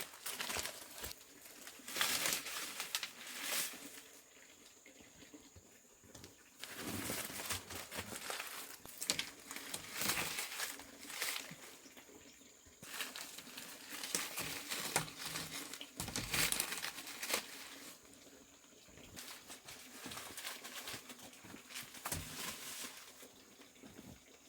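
Irregular rustling and crinkling handling noises, coming and going in bursts of a second or two.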